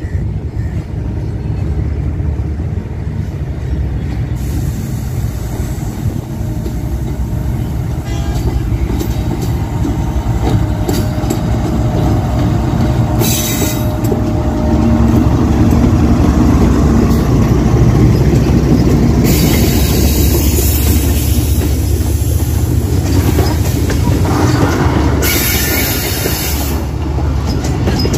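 Train running past on the rails: a heavy low rumble that grows louder toward the middle, with wheels clattering and squealing on the track.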